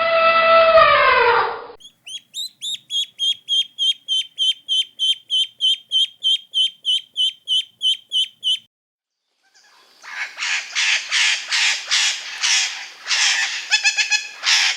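A sequence of bird calls: a drawn-out pitched call that falls away at the end, then a long run of quick, high chirps about three a second, then after a short pause a series of harsh, rapid squawks.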